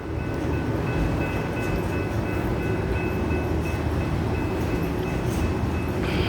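Freight train cars rolling past at moderate speed: a steady rumble of wheels on the rails, with a thin, steady high ringing over it.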